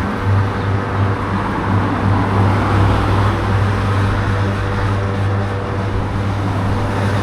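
Two-stroke dirt bike engine idling steadily, an even low hum with no revving.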